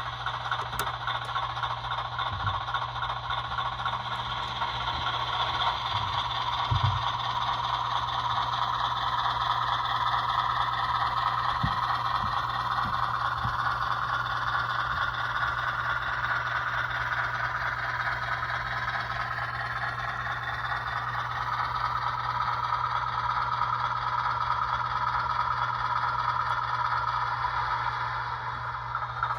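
HO scale model 44-tonner diesel switcher running slowly along the track, its motor whine and wheel rattle drifting gently up and down in pitch over a constant low hum, with a few light knocks.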